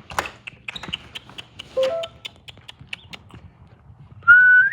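A person calling stray cats: light taps and clicks throughout, a brief rising call about two seconds in, then a loud, steady high whistle lasting about half a second near the end.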